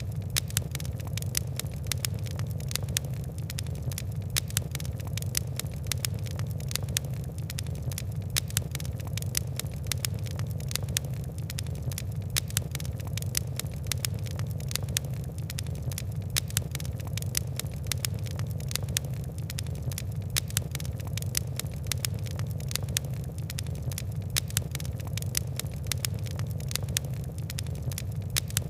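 Fire crackling: dense, irregular sharp crackles and pops over a steady low rumble.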